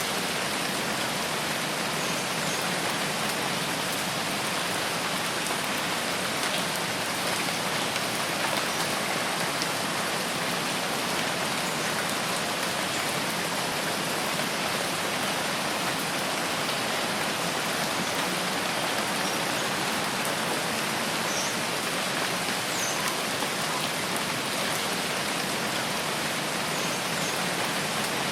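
Steady rain falling, an even, unbroken wash of noise with no let-up, with a few faint high chirps about three-quarters of the way through.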